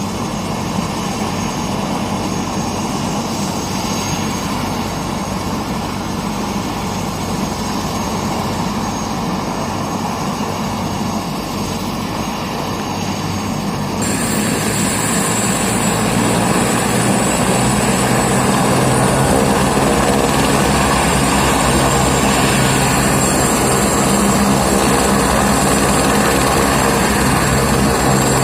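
Helicopter turbine and rotor running steadily, growing louder about halfway through as a high whine joins in.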